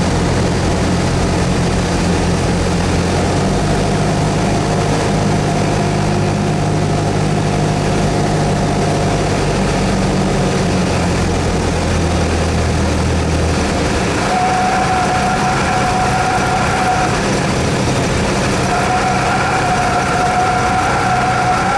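Cessna 172S's four-cylinder Lycoming engine and propeller running at steady power. About two-thirds of the way through the engine note drops away, and a steady higher tone sounds twice over the last several seconds.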